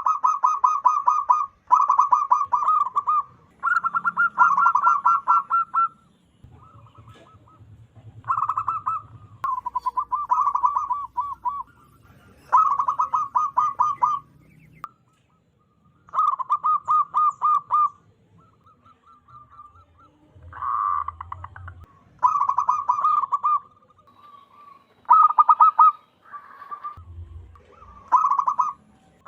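Zebra dove (perkutut) cooing: about a dozen short phrases of rapid, stuttering coos, each a second or two long, with brief gaps between them.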